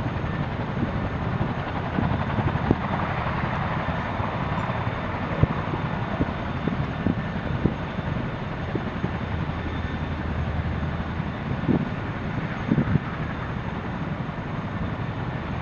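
Boeing CH-47F Chinook tandem-rotor helicopters running: a steady mix of turbine and rotor noise, heaviest at the low end, with irregular low thumps throughout.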